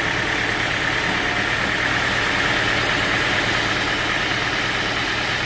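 Sawmill machinery running steadily: an engine at idle with a constant whir, and no cutting or strokes.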